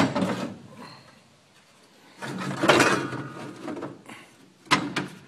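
Metal clunks and scraping as a radiator is worked into its mounting in the front of the truck: a sharp knock at the start, a longer scrape a couple of seconds in, and two quick clicks near the end.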